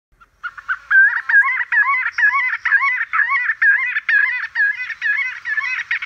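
Bird calls: a fast, steady series of repeated rising-and-falling notes, about four a second.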